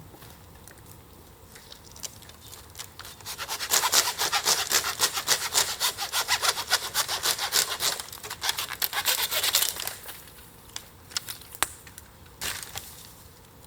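Wood being sawn by hand: quick back-and-forth rasping strokes, about four a second, starting about three and a half seconds in and stopping about ten seconds in. A few faint clicks come before and after.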